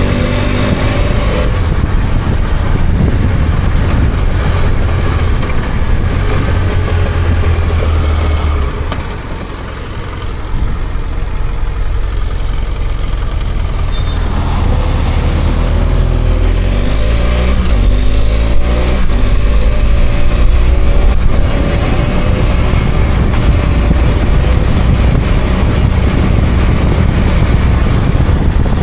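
BMW F800GS motorcycle's parallel-twin engine running on the road, with a steady rush of road and wind noise. The engine note drops off about nine seconds in, then climbs and falls again in a series of rising revs around the middle.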